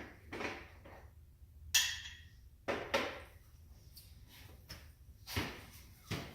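A series of separate clinks and knocks, about eight in all, from hand tools being handled and set down.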